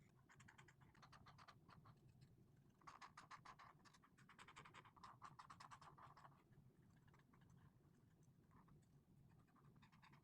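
Faint scratching of an Ohuhu alcohol marker's nib rubbed quickly back and forth on colouring-book paper, in two runs of strokes, the second and louder from about three to six seconds in, then a few scattered strokes.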